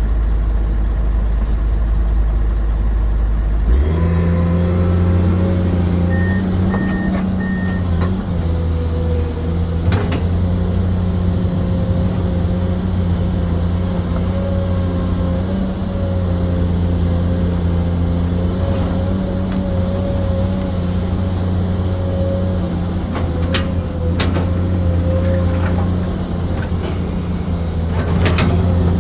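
Komatsu PC210 excavator's diesel engine running steadily under work. The engine sound changes abruptly about four seconds in. Three short, even beeps follow soon after, and a few sharp knocks come later.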